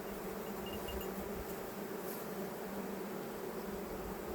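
Honey bees buzzing around an opened hive, a steady hum.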